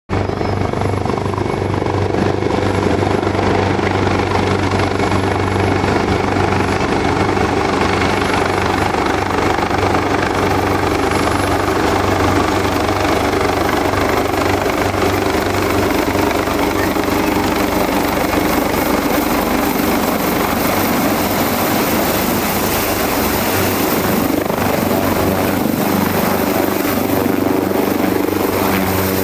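AgustaWestland AW189 twin-turbine helicopter running, a steady rotor drone with a thin high turbine whine that comes in partway through.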